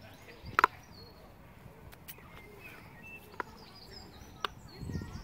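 Small birds chirping in the background, with a few sharp clicks, the loudest about half a second in.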